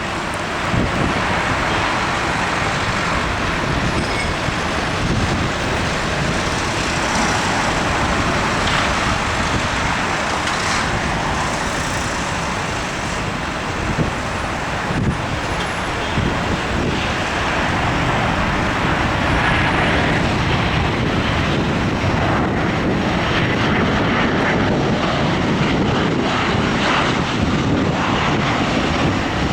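Jet airliner engines running, a loud steady rushing noise.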